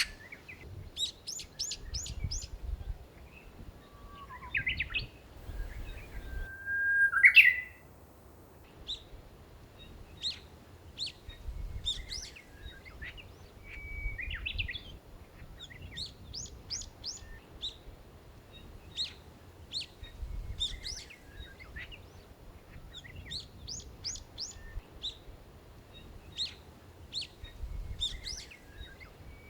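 Small birds chirping: many short, high calls repeated through the whole stretch, with one louder, longer call rising in pitch about seven seconds in. A low rumble comes and goes underneath.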